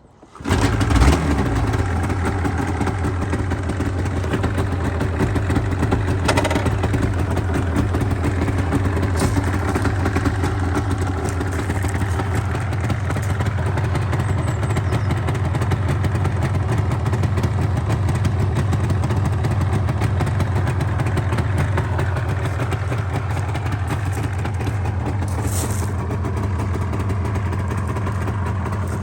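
1988 Yamaha TZR250's two-stroke parallel-twin engine starting from cold on the choke: it catches right away with a brief rise in revs about a second in, then settles into a steady idle.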